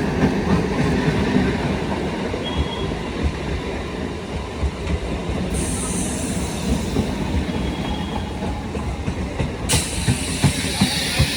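Electric multiple-unit (EMU) suburban train running past, its wheels rumbling and clattering over the rail joints with a brief faint squeal. A high hiss joins about halfway through.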